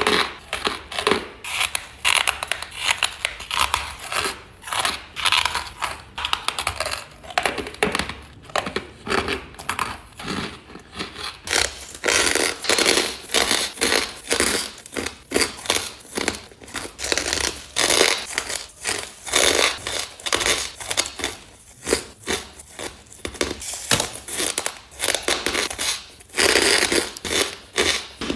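Close-miked crunching of ice being bitten and chewed: a continuous run of crisp crunches, a few each second.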